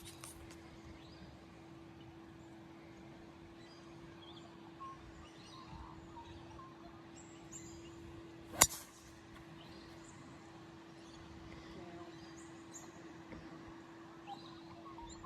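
Quiet open-air ambience with faint bird calls and a faint steady hum, broken once, about eight and a half seconds in, by a single sharp crack of a golf club striking a ball.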